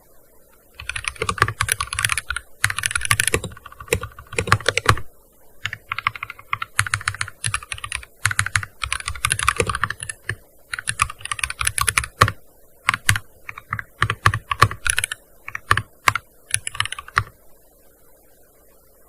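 Typing on a gaming keyboard in quick runs of keystrokes broken by short pauses, starting about a second in and stopping near the end.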